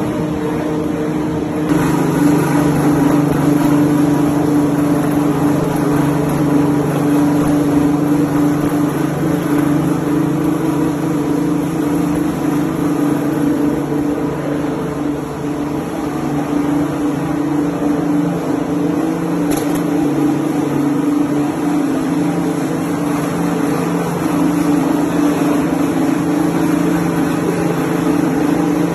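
Soap production line machinery running steadily: a loud, constant motor hum over mechanical noise, with a lower hum joining about two seconds in and a single click midway.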